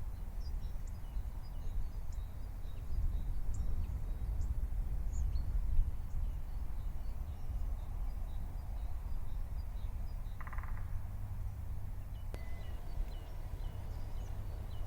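Outdoor nature ambience: scattered short bird chirps over a steady low rumble, with a brief buzzing call about ten seconds in.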